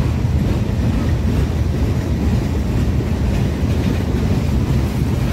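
A train passing close by, a loud, steady low rumble.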